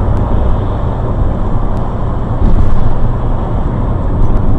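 Car driving on the road, heard from inside the cabin: a steady road and engine rumble.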